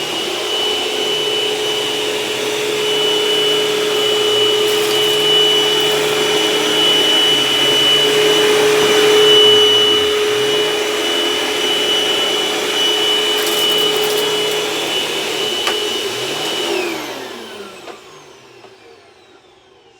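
Dirt Devil Envision Turbo upright vacuum running loud with a steady high whine, picking up shredded paper. About seventeen seconds in it is switched off and its motor winds down, the whine falling in pitch and fading.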